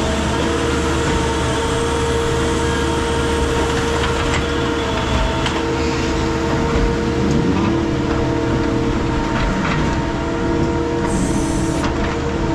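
Heavy machinery running steadily, a dense drone with a steady hum, and a tone that wavers up and down in the second half. A short hiss comes near the end.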